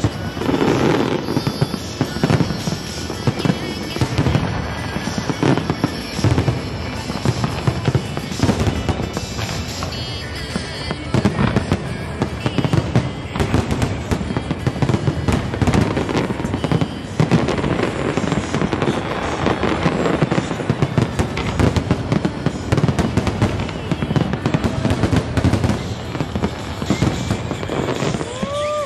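Aerial firework shells exploding in rapid, continuous succession, with music playing underneath.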